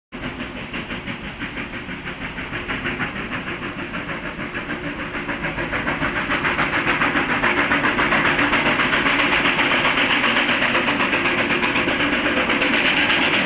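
Steam locomotive working hard, its exhaust beating rapidly and evenly, growing steadily louder as it approaches.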